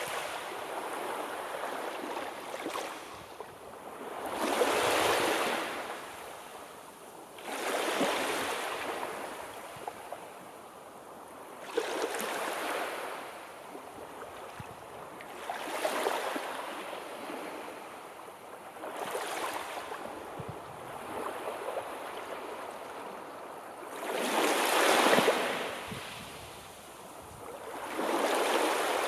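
Sea waves surging in and drawing back, a hissing wash that swells and fades about every three to four seconds, with one larger wave near the end.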